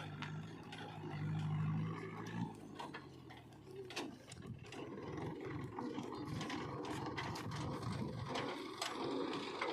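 Heavy diesel engine running, with scattered clicks and knocks over it. The steady engine note drops away about 2.5 s in and comes back rougher and uneven from about 5 s on.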